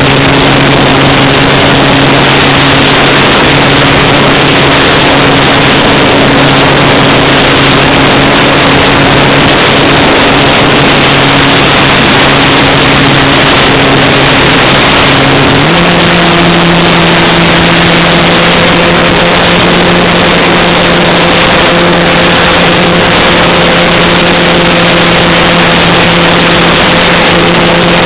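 Electric motor and propeller of a radio-controlled Hype Cessna 182 model plane running under a loud, steady rush of air noise. Its hum steps up in pitch about halfway through as the throttle is opened and holds there.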